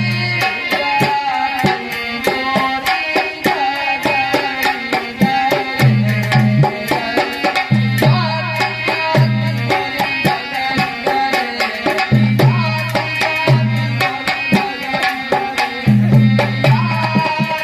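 Dholak played fast and loud in an instrumental interlude of a dehati bhajan, dense rapid strokes with deep bass strokes every second or two, under a melody instrument playing a tune.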